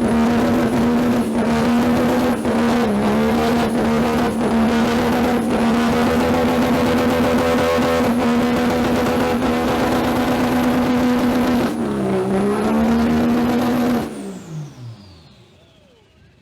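Diesel pickup truck engine held at high revs, a steady strong note that dips briefly twice, then let off about fourteen seconds in, the revs falling away and the sound dying down.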